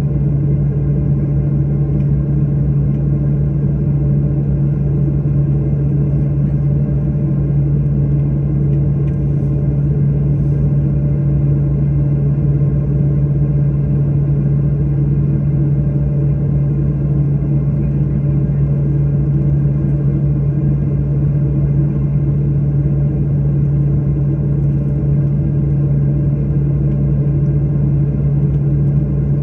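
Steady drone of an airliner heard from inside the cabin: a constant low hum from the engines and air system, with no change in pitch or level.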